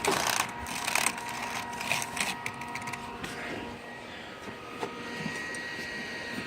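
Clicking and rattling of computer hardware being handled, then a steady whir of the desktop computer's fans running after it has been powered on.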